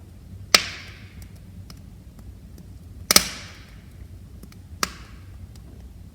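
Wood fire crackling in a fireplace stove: three sharp pops, the loudest about three seconds in, each with a brief hiss, over a steady low rumble of burning and faint small ticks.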